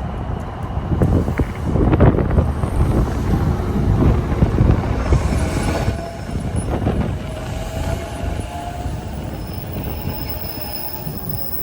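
A JR electric commuter train moving through the station. A heavy rumble and clatter of wheels over rail joints is loudest in the first half and then eases, with thin high-pitched wheel squeal appearing in the second half.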